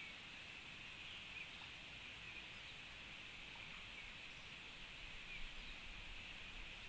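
Faint, short bird chirps scattered over a steady hiss of outdoor background noise.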